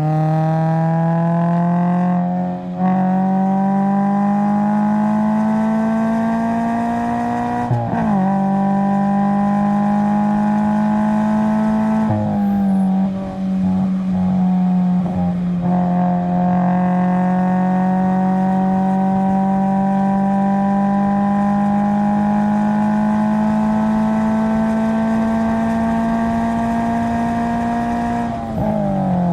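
2020 Subaru BRZ's 2.0-litre flat-four engine under hard acceleration on track, its pitch climbing through the gears with three quick upshifts in the first twelve seconds. It then pulls in a high gear with a long, slow rise in pitch, and drops near the end as the driver lifts off the throttle.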